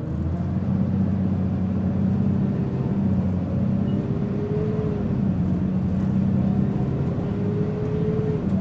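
Mitsubishi Fuso Aerostar LKG-MP37FK city bus running under way, its diesel engine heard from inside the cabin, with a faint whine rising slowly in pitch twice. This bus is described as making a considerable abnormal noise.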